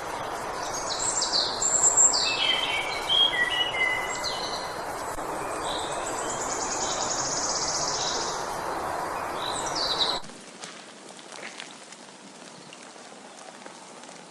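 Birds calling over a steady outdoor hiss: a few short chirps and whistles, then a long buzzy trill. About ten seconds in, the hiss and the calls cut off suddenly, leaving quieter outdoor ambience.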